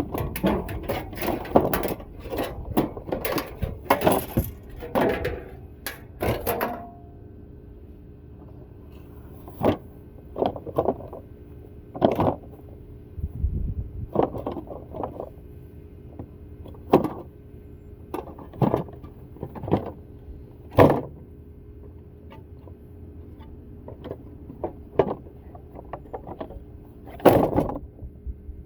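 Metal clanking and knocking as a window air conditioner is taken apart for scrap: a dense clatter for the first six seconds or so, then single knocks every second or two, over a faint steady hum.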